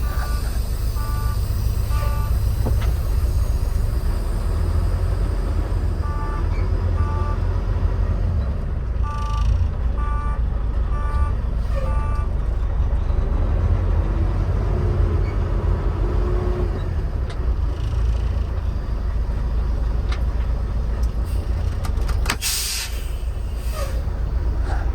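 Diesel engine of a Volvo VNR semi truck idling with a steady low rumble, while electronic beeps sound in short runs of a few tones. Near the end, a short hiss of air released, as from the truck's air brakes.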